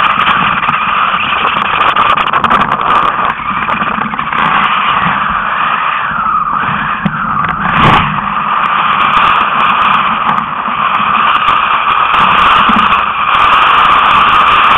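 Steady loud rushing noise of wind and water at sailing speed, with one sharp slap about eight seconds in.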